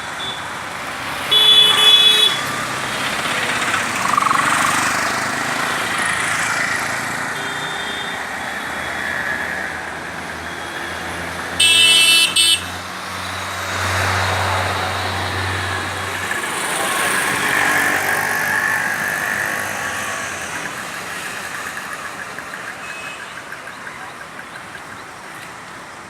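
Road traffic passing steadily, with a vehicle horn sounding twice: a short honk about a second and a half in and a louder one about twelve seconds in.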